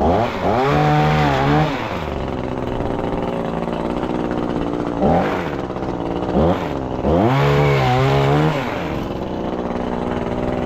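Gas pole saw's small two-stroke engine idling and being throttled up: a long rev near the start, two short blips around the middle, then another long rev, each rising to a high steady whine before dropping back to idle.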